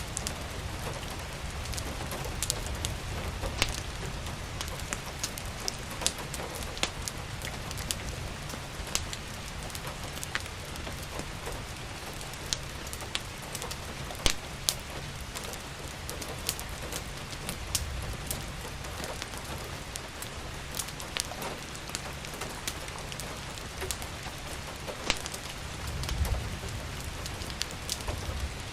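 Steady rain falling, over irregular sharp crackles and pops from a wood fire. A low rumble swells briefly near the end.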